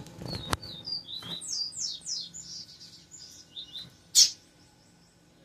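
Double-collared seedeater (coleiro) singing: a fast run of short, high, downward-sliding notes, ending about four seconds in with one loud sharp note. Two or three faint knocks come early on.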